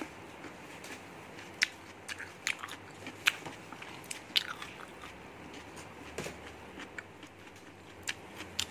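A person chewing a mouthful of noodles, with scattered short, wet mouth clicks at irregular intervals.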